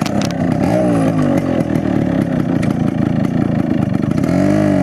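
Yamaha RX135's two-stroke single-cylinder engine running, its revs rising and falling about a second in and climbing again near the end as the motorcycle is ridden.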